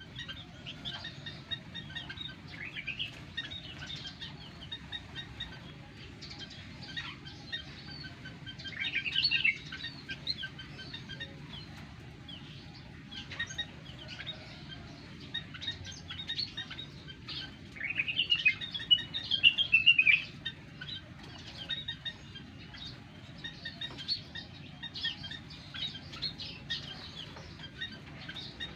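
Small cage birds in a mini aviary chirping and twittering in many short high notes, with wings fluttering. Louder flurries of calls come about nine seconds in and again around eighteen to twenty seconds, over a steady low hum.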